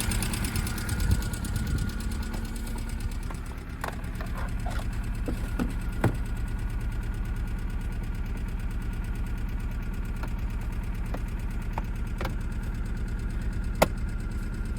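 Hyundai Getz 1.6 four-cylinder petrol engine idling steadily with a light tick and a check engine light on; the owner suspects a misfire. A few sharp clicks stand out over it, the loudest about six and fourteen seconds in.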